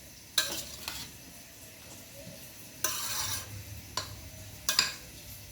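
Kitchen dishes and utensils being handled: a few sharp clinks and knocks, with a short scraping rub about three seconds in.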